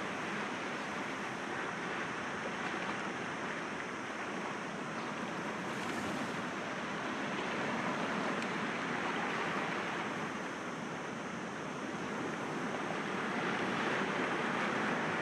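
Sea waves breaking gently against rocks, a continuous surf wash that swells and eases slowly, growing louder near the end.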